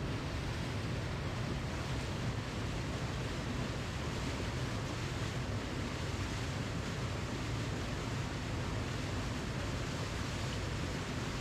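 Steady, unbroken rush of falling water from a waterfall, a full even noise with most weight in the low end.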